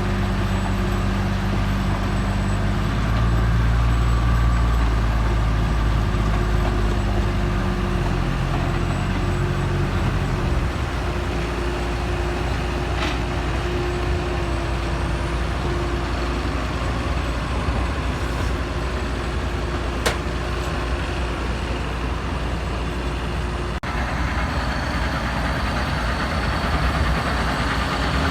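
Tractor engine running steadily while pulling a round baler; its low hum drops in pitch about ten seconds in and then runs on more evenly.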